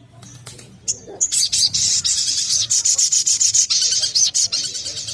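Olive-backed sunbird singing. After a few scattered high notes it breaks, about a second in, into a long rapid high-pitched trill of many quick notes that runs for about four seconds.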